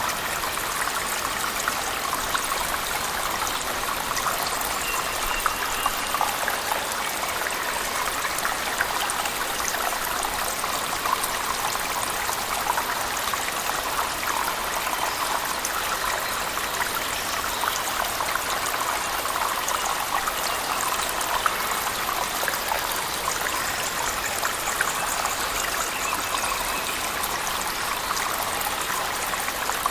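Falling water and heavy rain: a steady rush of water with many small drips and splashes.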